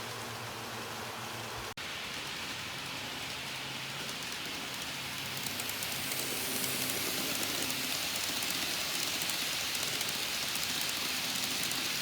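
N-gauge model train running on its track: a steady rushing, rain-like hiss of wheels and a small motor, which grows louder about five seconds in as the train comes closer.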